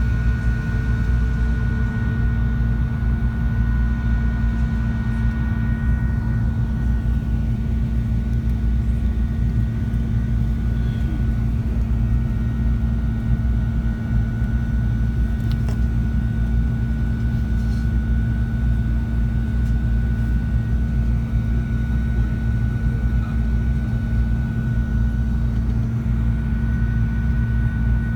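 Steady cabin drone inside an Airbus A380 standing on the ground before takeoff with its engines at idle: a low, even hum with a faint high whine above it.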